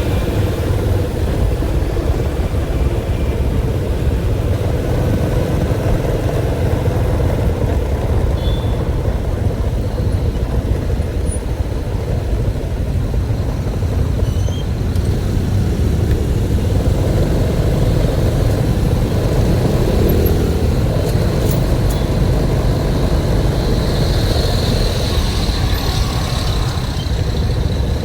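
Steady low rumble of a moving vehicle, loud and even throughout, without any clear revving.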